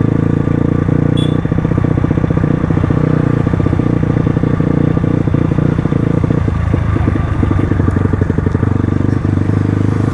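Crossfire RM250 dirt bike's engine running at a steady, even pace while being ridden, with a brief dip in the note about seven seconds in.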